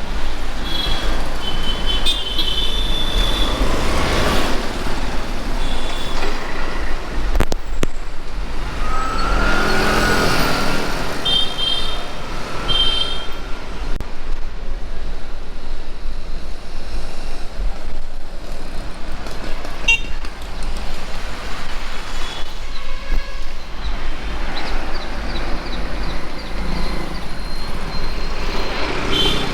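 Street traffic heard from a moving bicycle: motor vehicles passing close by, several times, with short high-pitched horn toots, over a steady low wind rumble on the microphone.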